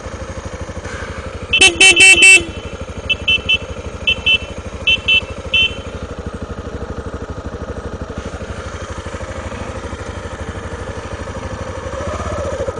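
Single-cylinder Honda XR250 Tornado motorcycle engine running steadily, its horn sounded in a few loud short blasts about a second and a half in, followed by a run of shorter, fainter beeps until about six seconds in. The engine picks up a little near the end.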